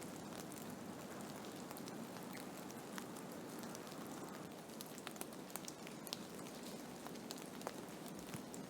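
Blizzard ambience: a steady rushing storm noise with scattered sharp ticks of snow and ice striking a surface.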